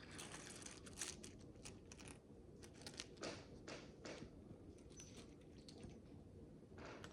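Tiny plastic micro bricks being handled: a string of small sharp clicks mixed with short rustles, loudest about a second in and again around three to four seconds in.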